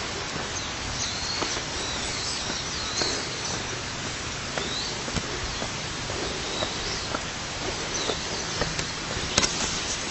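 Steady rush of flowing water from a stream or small waterfall, with small birds chirping briefly now and then.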